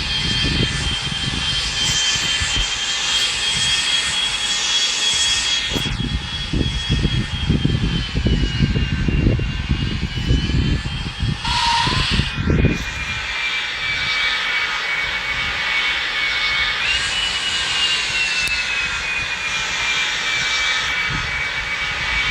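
Boeing 737 jet engines running with a steady high whine that drifts slowly in pitch, steps up briefly about two-thirds of the way through, then settles. Underneath is a constant rush of noise, with uneven low rumbling through the middle.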